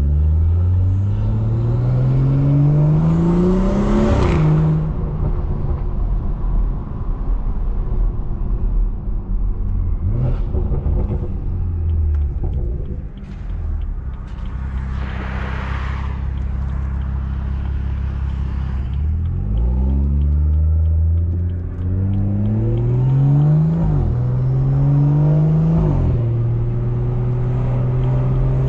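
Straight-piped, big-turbo BMW 340i's turbocharged straight-six under hard acceleration: the engine note climbs and drops at an upshift about four seconds in, holds steadier through the middle with a brief hiss, then climbs through two more quick upshifts near the end.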